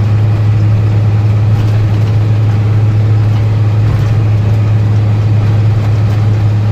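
International tandem grain truck's engine running steadily at highway cruise, a loud, even low drone heard from inside the cab.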